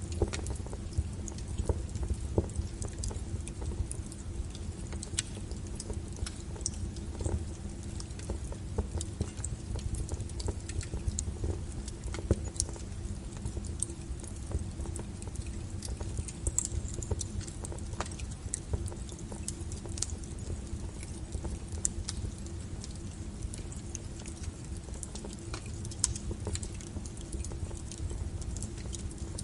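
Wood fire burning: irregular crackles and sharp pops of burning firewood over a low, steady rumble of the flames.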